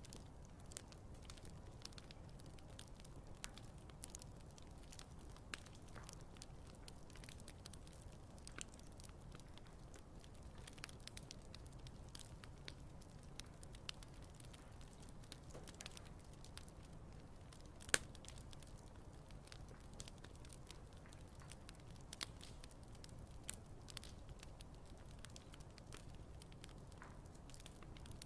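Wood fire crackling, with scattered small pops and one louder pop about two-thirds of the way through.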